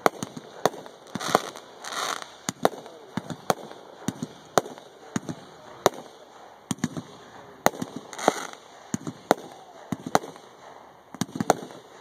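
Aerial firework mortar shells from a multi-shot display, launching and bursting as sharp bangs in quick, irregular succession.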